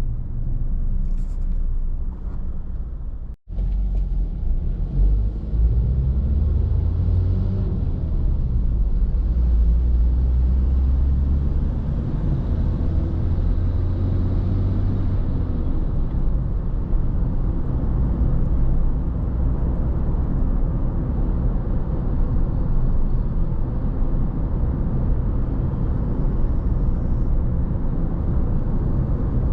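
Steady low rumble of a car driving along a road, with a brief cut-out about three and a half seconds in.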